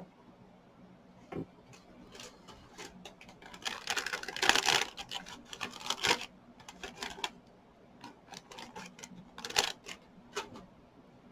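Light clicks and rattles of small plastic craft items being handled on a tabletop. The clatter is busiest from about four to six seconds in, with a single click early and another short cluster near the end.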